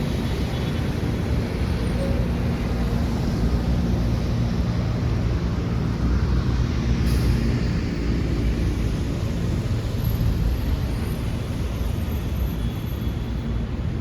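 City street traffic: vehicles running past with a steady low rumble, and a short hiss about halfway through.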